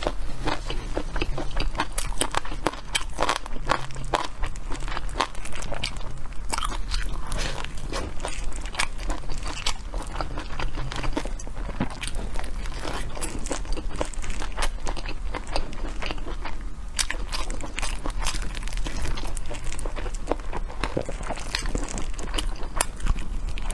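Close-miked biting and chewing of a chicken drumstick: a steady run of small crunches and mouth clicks, over a low steady hum.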